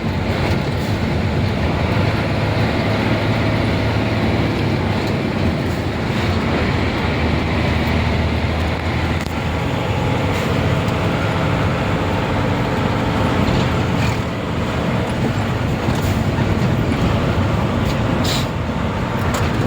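Nissan Diesel UD440 crane truck's diesel engine running steadily under way, with road noise, heard from inside the cab.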